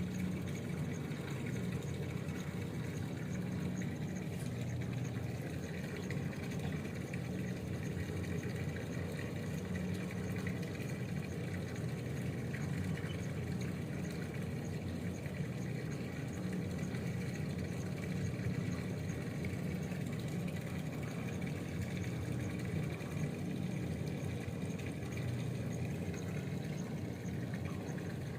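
A motor running steadily: an even low drone with no letup.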